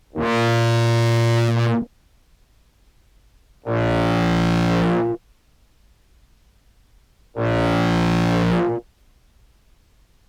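Contrabass clarinet samples played through a Behringer Brassmaster fuzz, with an OBNE Float envelope taking the edge off each note's attack. Three held, fuzz-distorted low notes of about a second and a half each, with near-silent gaps between them.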